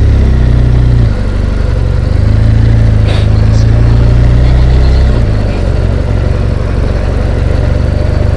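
BMW R1200GS Adventure's boxer-twin engine running while the motorcycle is ridden, a steady low engine note that eases off briefly about a second in and again around five seconds in.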